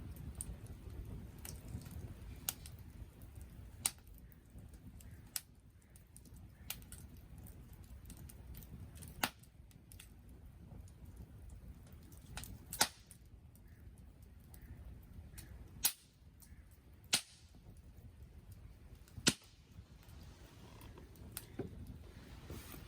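Wood campfire crackling, with sharp pops that come irregularly, from about a second to several seconds apart, over a faint low rush of the fire.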